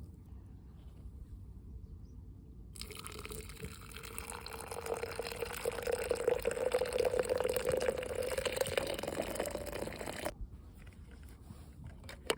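Liquid poured in a steady stream into a container, its pitch climbing slightly as the vessel fills; it starts about three seconds in and stops abruptly about ten seconds in.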